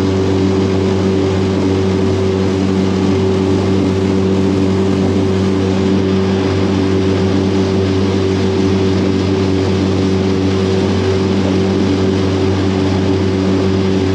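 Outboard motor of a small aluminium tinny running at a steady speed under way, a constant engine drone over a steady rushing noise.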